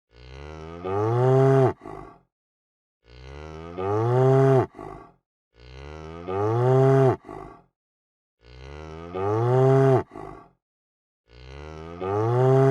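A cow mooing, the same call repeating about every three seconds, five times. Each moo lasts about a second and a half, swelling louder partway through, and ends with a short, weaker second sound.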